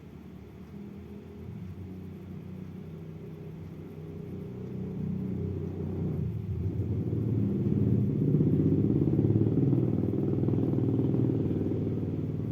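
A train rumbling past: a deep, low rumble that grows louder over the first several seconds, is loudest about two-thirds of the way through, then begins to fade.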